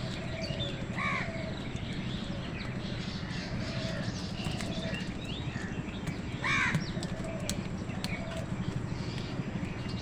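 Crows cawing among chirping small birds, with one loud caw about six and a half seconds in, over a steady low rumble.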